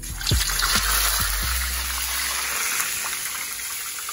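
A rabbit piece going skin side down into hot oil in a frying pan: a sudden loud sizzle that eases into a steady frying hiss. There are a few light knocks in the first second and a half.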